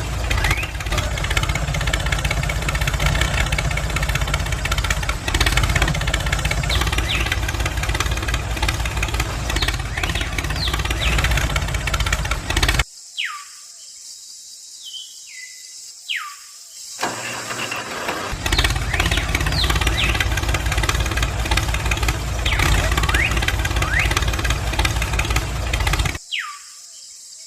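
Steady, loud engine-like running sound with a deep rumble. It cuts off abruptly about halfway through, comes back a few seconds later, and cuts off again near the end. Short falling whistle-like sweeps are heard in the gaps.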